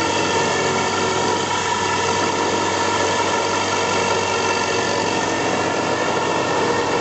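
4-axis CNC milling machine running steadily, a constant machine hum with several high, steady whining tones.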